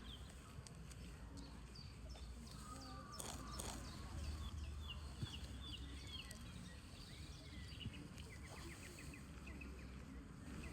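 Small songbirds chirping, with quick runs of short repeated notes about four seconds in and again near the end, over a low steady rumble.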